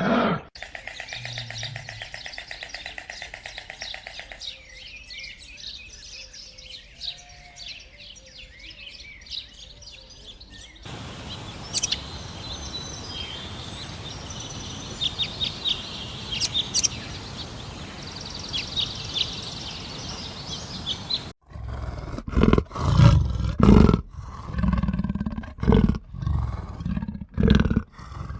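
Small birds chirping in quick high calls, then, after a cut, a big cat roaring in loud, deep, irregular bursts.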